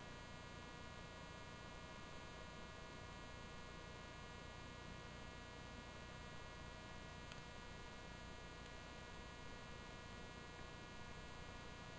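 Faint, steady electrical hum and buzz with no speech, with a single faint tick about seven seconds in.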